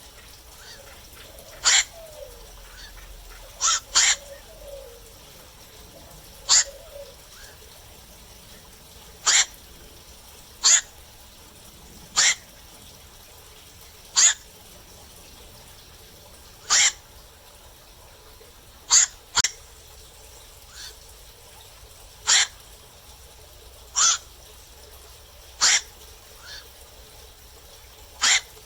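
Black-crowned night heron giving short, sharp calls at night, one every one to three seconds, sometimes two in quick succession.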